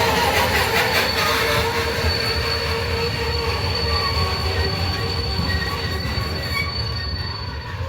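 Train running on the rails with a low rumble and a steady high-pitched wheel squeal that sets in about a second in and fades near the end.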